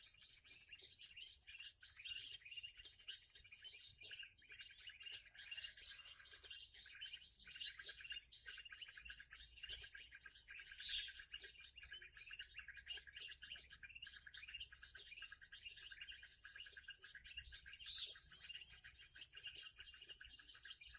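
Small birds chirping and twittering rapidly and without pause, with a few louder calls standing out now and then.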